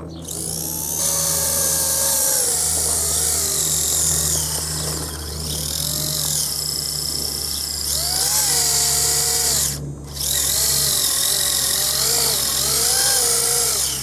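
Brushed Tamiya TZ electric motor and steel drivetrain of a home-built RC truck running under throttle, its whine rising and falling, over a loud rattle. The speaker traces the rattle to a loose sheet-metal side panel shaken by vibration from the unbalanced PTO shaft. The motor stops briefly about ten seconds in, then runs again.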